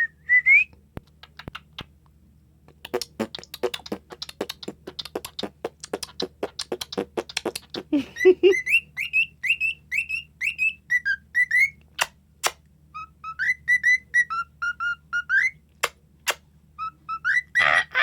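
Cockatiel whistling. It gives a short rising whistle at the start, then a few seconds of rapid clicking chatter, then a run of clear whistled notes that rise and fall like a tune, with a louder call near the end.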